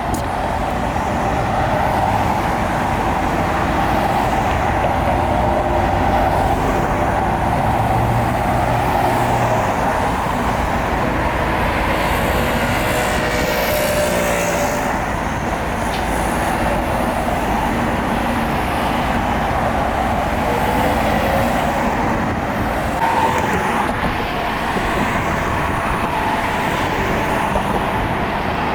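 Steady engine noise with a low rumble and a humming tone that shifts slightly in pitch about halfway through.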